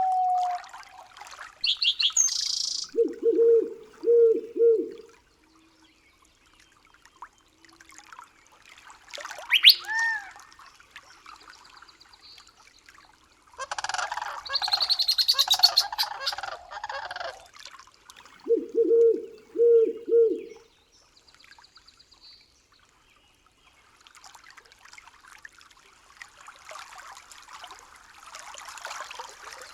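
Forest birds calling in separate phrases: high chirps, a gliding whistle, a low three-note call heard twice and a longer rough burst in the middle. Toward the end a soft rush of running water comes in.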